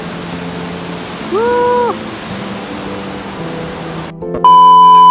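Steady rushing water, a river or heavy rain, with a brief pitched note about a second and a half in. Near the end the sound cuts out and a loud, steady electronic beep at about 1 kHz takes over.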